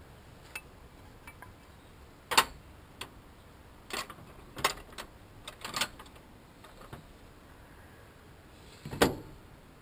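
Irregular sharp clicks and clanks of hand tools and small metal parts being handled, the loudest about two and a half seconds in and again near the end.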